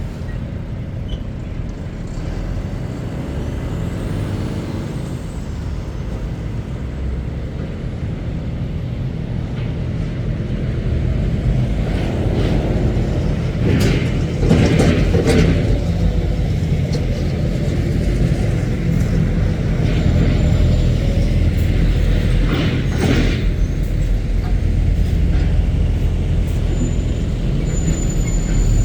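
Heavy diesel lorry engines running as trucks pull out of a dock gate, the rumble building steadily louder. Short hisses, typical of air brakes, come about halfway through and again about two-thirds through.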